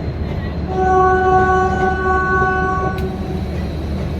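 A train horn sounding one steady note for about three seconds, starting about a second in, over the continuous low rumble of a train.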